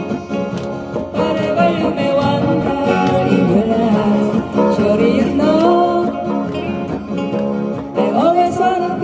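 Acoustic guitars strumming a country-style song while a voice sings the melody over them.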